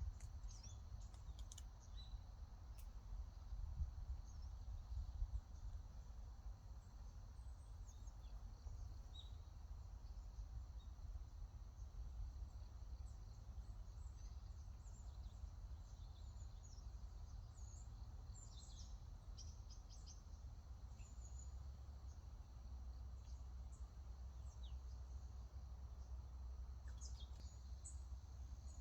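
Birds chirping and tweeting in scattered short calls, thicker near the middle and end, over a faint steady high drone and a low background rumble.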